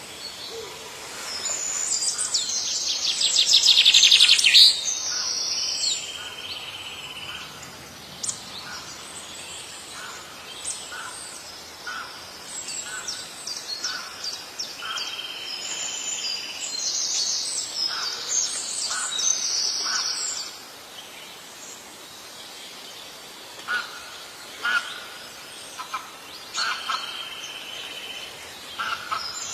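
Songbirds singing and calling in bouts of rapid, high trilled phrases, with shorter single chirps between them; the loudest burst of song comes in the first few seconds.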